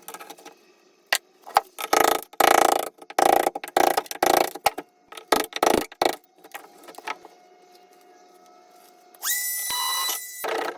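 Tool and work-handling noise: a quick run of rough scraping and knocking strokes, then, after a quieter stretch, a high whine that rises in pitch and holds steady for about a second and a half near the end.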